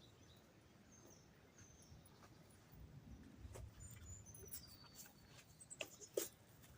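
Faint bird calls, short high chirps over near-quiet surroundings, with a couple of small clicks near the end.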